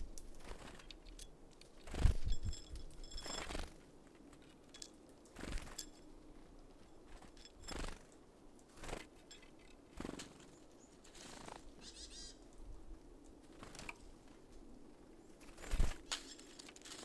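Irregular taps and knocks on a bird feeder, about ten in all, the loudest about two seconds in and near the end, from small birds such as tits landing and pecking at sunflower seeds, with a few faint high bird calls.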